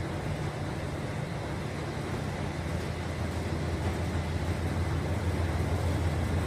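Dexter T-600 stainless-steel front-load washer running with a steady low hum and a rushing noise above it, growing slightly louder near the end.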